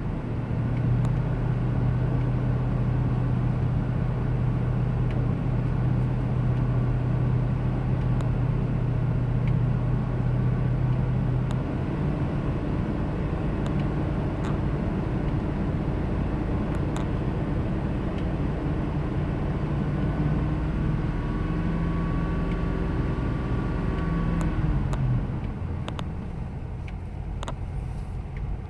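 Ford 5.4-litre V8 in a 2000 Ford Expedition running at idle with a steady low hum, the rough idle that the owner is chasing. Engine speed steps up about twelve seconds in, creeps a little higher, and falls back a few seconds before the end, with a few light clicks near the end.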